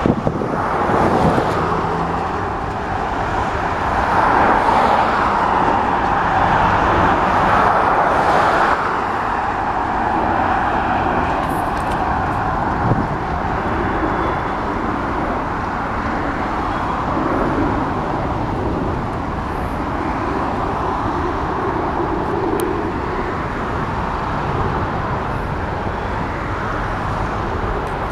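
Freight train of loaded trash-container cars rolling past, with a steady noise of wheels on rail that is loudest early on and then evens out.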